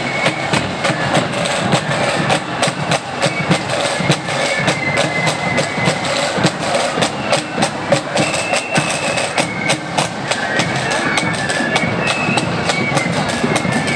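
Marching flute band playing: flutes carry a high melody over rapid snare-drum strokes and bass drum beats.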